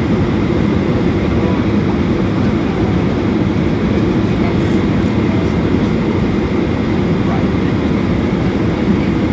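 Steady rumble of engine and air noise inside the cabin of a Boeing 737-800 with CFM56-7B engines, unchanging throughout.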